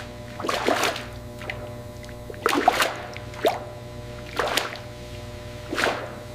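Thick syrup splashing and plopping in a series of short, irregular splashes, about six of them, over a steady low hum.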